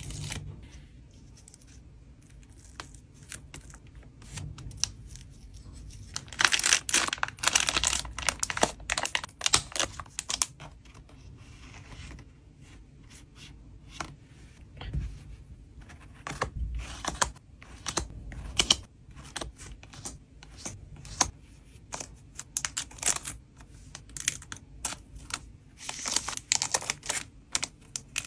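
Trading cards and plastic packaging being handled and packed: irregular taps and clicks with crinkling plastic. The crinkling is busiest about six to ten seconds in and again near the end.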